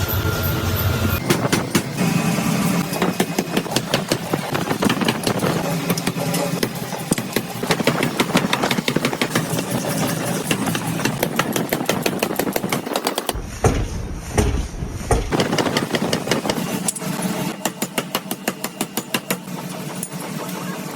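Factory machinery running with a rapid, uneven clatter of metal knocks and clicks. For about two seconds past the middle, a deeper rumble takes over.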